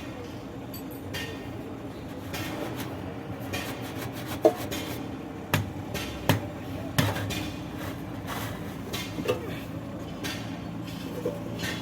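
A steady low engine hum with a handful of sharp knocks and clanks scattered through its middle, the loudest about four and a half seconds in.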